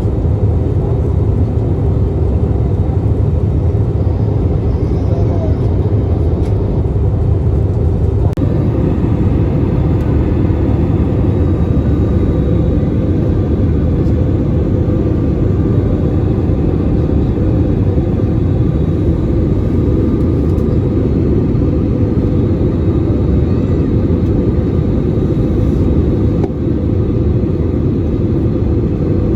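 Steady low rumble of an airliner's engines and rushing air heard inside the passenger cabin, the sound filling out slightly about eight seconds in.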